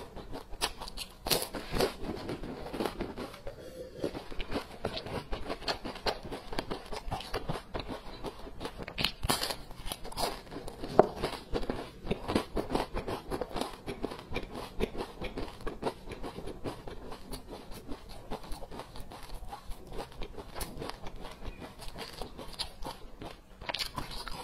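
A person biting and chewing flaky baked pastries: continual crisp crackles and small crunches as the layered crust breaks up in the mouth, with one sharper crunch about eleven seconds in.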